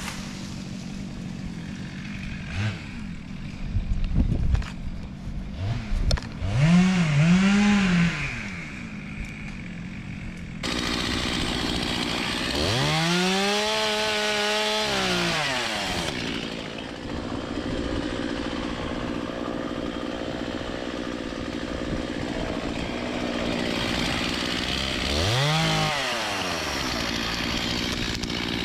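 Two-stroke chainsaw running throughout and revved up three times: a quick double rev about a quarter of the way in, a longer burst held at full speed for about three seconds past the middle, and a short rev near the end.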